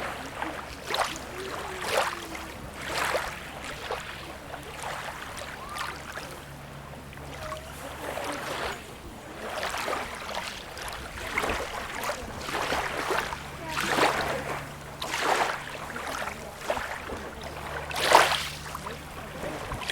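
Small waves lapping and splashing at the water's edge in irregular slaps, roughly one a second, over a faint steady low hum.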